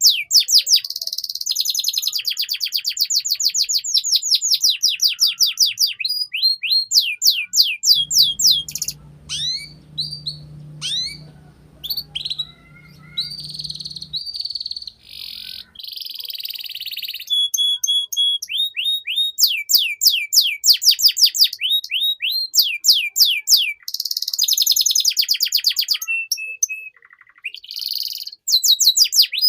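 Domestic canary singing: long, rapid trills of repeated high notes that each sweep downward, broken by short pauses and changes of phrase. A faint low hum runs underneath through the middle part.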